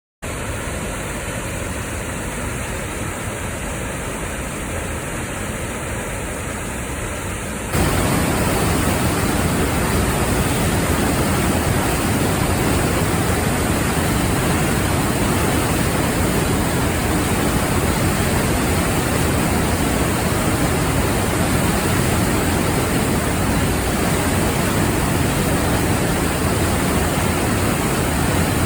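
Rushing water, a steady even noise that jumps louder about eight seconds in.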